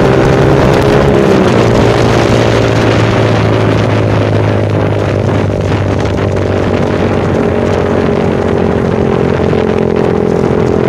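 Yamaha Vixion's single-cylinder four-stroke engine running steadily through a Kou Mahachai aftermarket racing exhaust. The drone eases down slightly in pitch about a second in, then holds even.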